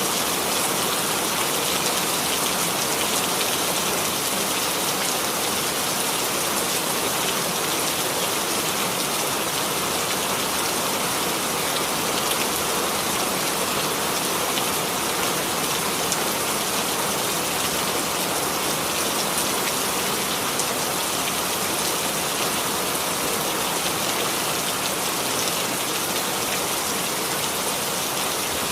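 Steady rain falling on a hard surface, an even hiss with fine scattered drop patter.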